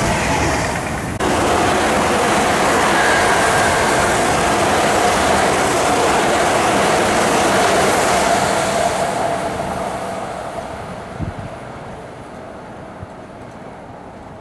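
Electric commuter trains passing close on the Tokyu Den-en-toshi Line. The sound changes abruptly about a second in. After that comes the rumble of a passing train with a steady motor whine, which fades away after about nine seconds. A single sharp knock is heard near the end.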